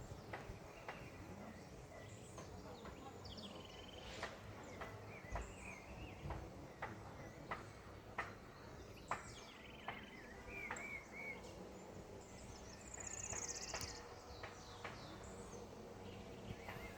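Birds calling: sharp short chips scattered irregularly throughout, a few wavering whistled notes, and a brief high buzzy trill a few seconds before the end, over a steady background noise.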